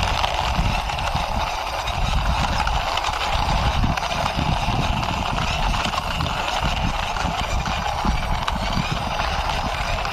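Plastic wheels of a small toy bus rolling as it is pushed by hand, an uneven rumble and clatter over a steady hiss.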